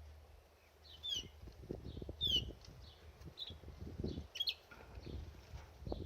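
Canary bathing: repeated short fluttering strokes of wings and water, mixed with brief high chirps several times.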